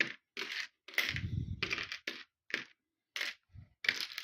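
Small plastic knock-off Lego pieces clattering as a hand rummages through them, in a series of short rattling bursts.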